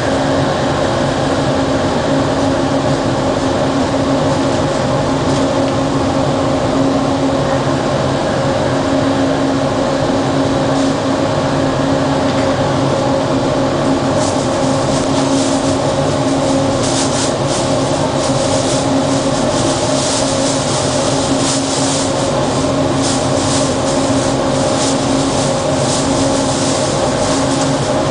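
Bombardier ART Mk II automated train running at a steady speed, heard from the front of the cab: a steady hum with level tones from its linear induction motor drive under the running noise. A crackly high hiss with clicks joins about halfway through and carries on to the end.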